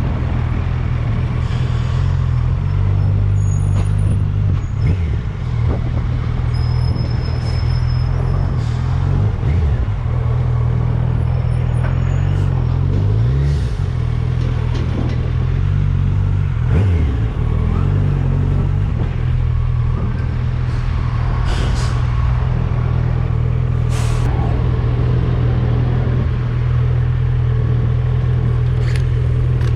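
Motorcycle engine running steadily at low revs, its pitch dipping and rising briefly a few times.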